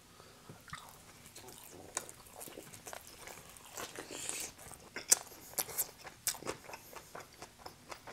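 Close-miked chewing of pizza and a pickled pepperoncini: crisp crunches and wet mouth clicks, coming faster and louder in the second half.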